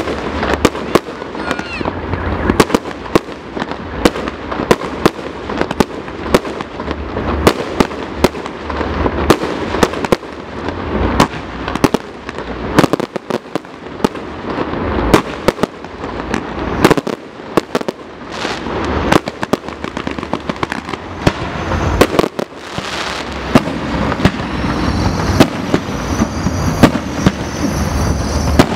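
Fireworks display: a rapid, irregular string of loud bangs and pops from bursting shells, with crackling between them.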